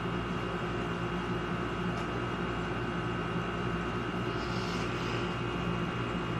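Steady mechanical hum of a running appliance in a small room, several constant tones over a low drone with no change in level.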